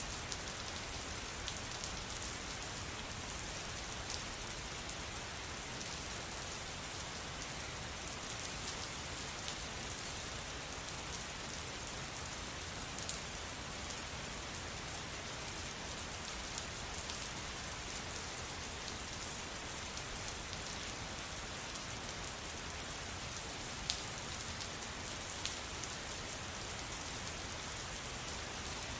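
Steady rain falling, an even hiss with individual drops pattering and ticking on a surface, a few sharper drop hits standing out now and then.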